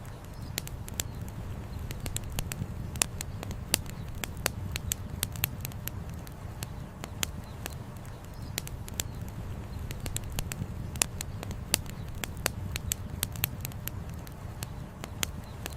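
Wood campfire crackling, with many sharp, irregular pops, over a steady low rumble.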